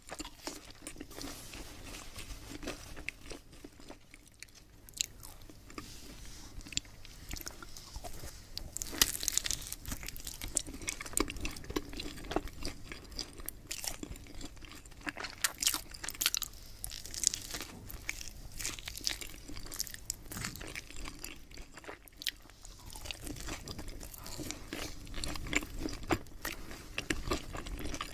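A person chewing and biting crunchy food close to the microphone, with irregular crunches that come louder and more often from about a third of the way in.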